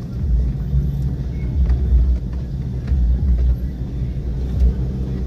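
Car driving: a steady low rumble of engine and road noise that swells and eases slightly.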